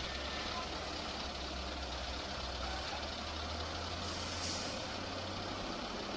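Heavy machine's engine running steadily, with a short burst of hiss about four seconds in.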